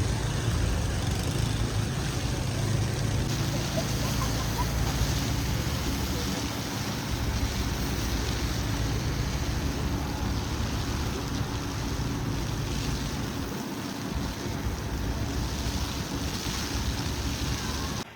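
Snowstorm wind rushing steadily over a low rumble of distant city traffic, the rumble heavier in the first part. The sound drops off suddenly at the very end.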